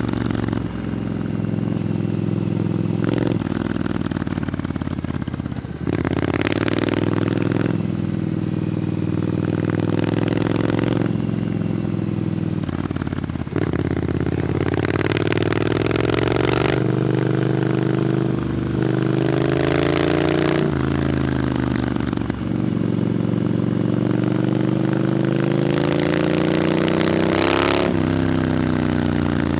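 Triumph Scrambler 900's parallel-twin engine through an aftermarket Arrow exhaust under way. The engine pulls up through the revs and drops back several times, with short breaks in the note at each gear change.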